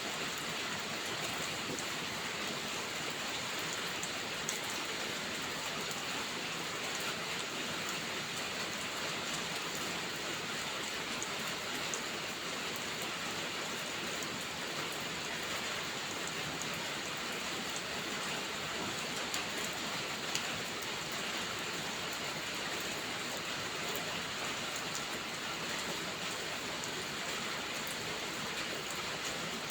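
Steady rainfall, an even hiss with a few brief, sharp ticks scattered through it.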